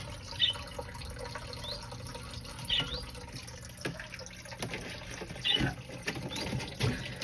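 Water dripping and trickling, with a few separate high plinks over a steady low background.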